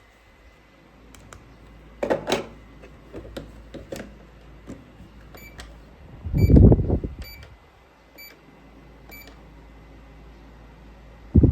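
Plastic toy microwave oven being handled: sharp plastic clicks, then five short electronic beeps about one a second, with a loud knock among them.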